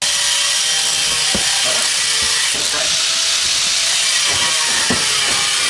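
A power tool running steadily with a loud hissing noise, with a few faint knocks underneath; it starts abruptly.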